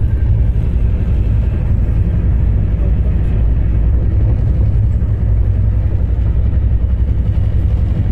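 Steady low rumble of a moving passenger train, running continuously.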